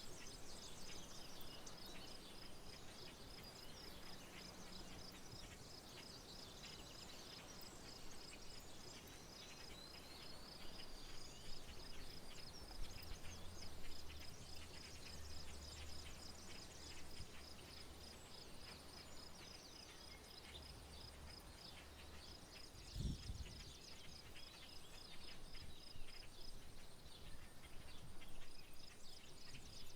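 Quiet rural outdoor soundscape: a steady, evenly pulsing high insect trill with scattered bird chirps over it. A faint low hum runs for several seconds in the middle, and a brief low thud comes about two-thirds of the way through.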